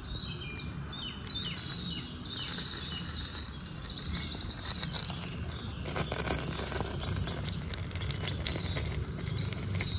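Several small birds chirping and twittering in quick, repeated trills, over a low steady background noise, with a few faint clicks near the middle.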